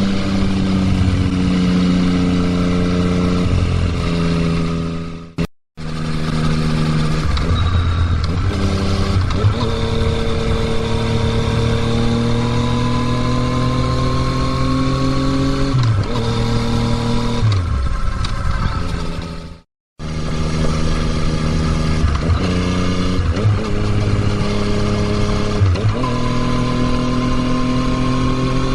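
2020 Yamaha MT-09's three-cylinder engine through an Akrapovič exhaust, pulling under load on the road. The revs climb steadily and drop sharply at several gear changes, and the sound cuts out completely twice for a moment.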